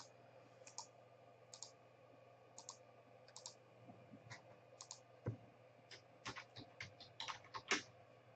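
Faint, irregular clicks of computer keys and a mouse. The clicks are spaced about a second apart at first and come faster and closer together over the last few seconds.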